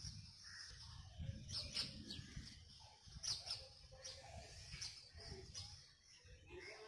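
Birds chirping faintly, short high chirps about once a second, over a low rumble.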